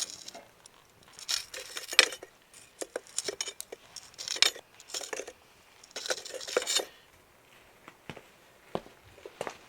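Irregular bursts of scraping and rustling with light clinks, like objects being handled, five or six times over several seconds.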